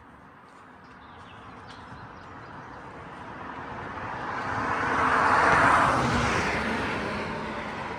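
A vehicle passing by: its noise swells steadily, is loudest about five and a half seconds in, then fades away.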